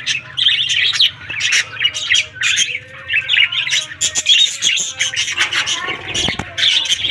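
Pet birds, a parrot among them, chirping and squawking in a dense, overlapping chatter of short calls, a little thinner in the middle.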